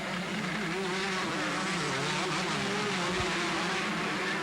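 Two-stroke motocross bikes racing, their engines buzzing and revving up and down in pitch as the riders work the throttle.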